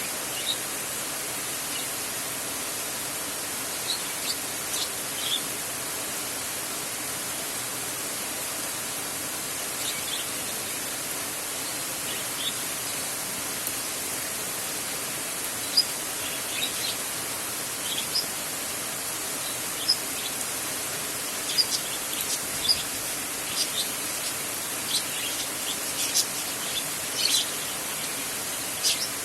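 Heavy rain falling in a steady hiss, with short high bird chirps scattered over it, coming more often in the second half.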